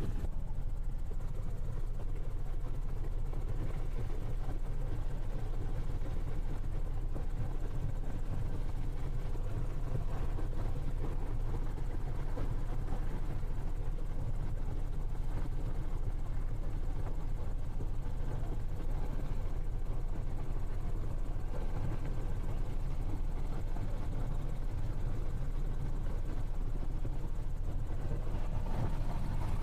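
Helicopter engine and rotor noise heard from inside the cabin: a steady low drone.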